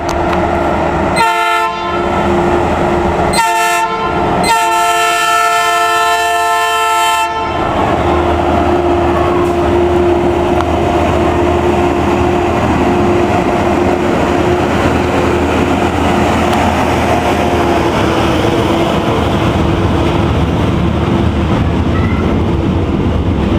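A horn sounds three blasts, two short and then a long one of about three seconds, as a high-rail truck leading a freight train approaches. The train then rolls past with a steady rumble and wheel clatter.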